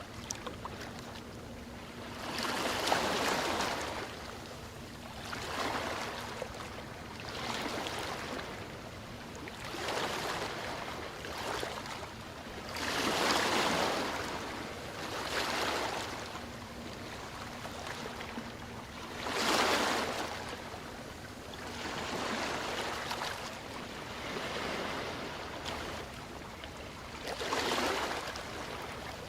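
Ocean surf: waves breaking and washing ashore, the noise swelling and ebbing in surges every two to three seconds, some breaks louder than others.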